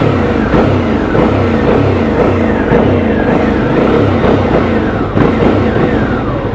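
Suzuki V-Strom 650's V-twin engine running hard on the road, its pitch repeatedly rising and falling as the throttle is opened and closed.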